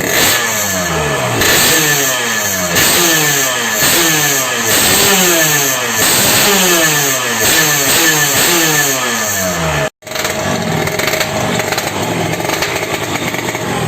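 Yamaha RX-King two-stroke single-cylinder engine revved through a custom aftermarket exhaust in repeated throttle blips, about one a second, each pitch falling back as the revs drop. After a brief break about ten seconds in, it runs more steadily at idle.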